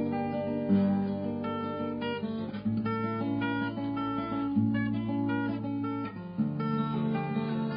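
Background music on acoustic guitar: strummed chords, changing about every one to two seconds.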